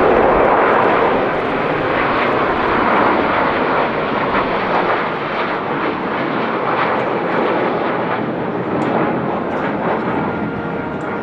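Jet roar from the Blue Impulse team's Kawasaki T-4 jet trainers flying past, loudest at the start and easing off gradually.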